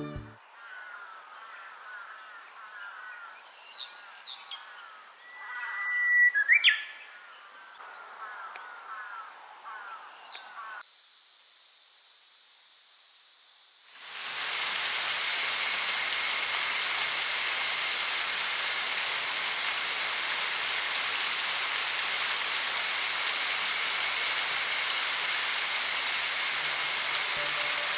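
Forest birds chirping and whistling in scattered calls for the first ten seconds or so. Then a steady high insect drone takes over, and from about fourteen seconds it is joined by an even rushing hiss.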